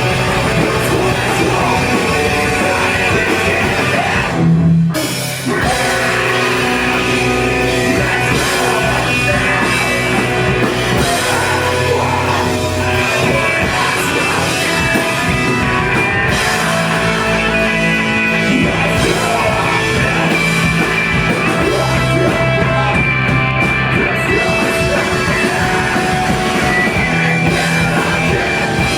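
A live post-hardcore band playing loudly, with distorted guitars, a drum kit and sung or shouted vocals, and a brief break about four and a half seconds in.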